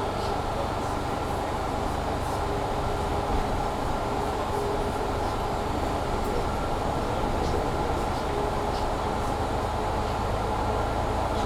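Mercedes-Benz Citaro C2 G articulated bus heard from inside while driving at a steady pace: continuous engine, driveline and rolling rumble with a steady whine, and the loud heater running.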